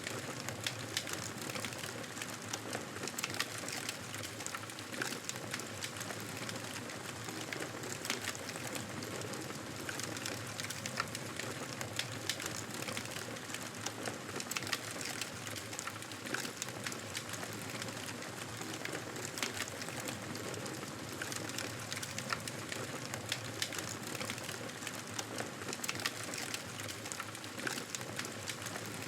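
Wood fire crackling in a fireplace: a dense run of small sharp pops and snaps over a steady hiss.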